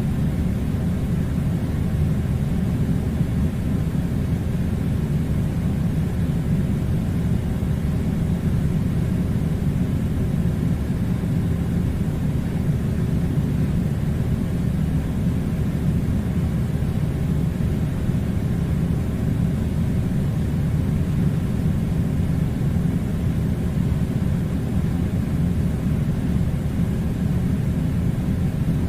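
Air conditioner running: a steady low rumble that holds even throughout, with no distinct events.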